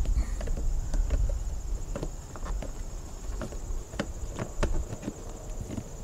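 Irregular plastic clicks and knocks of a shore-power cord plug being lined up and pushed into a Marinco Park Power RV inlet, over a steady high insect trill.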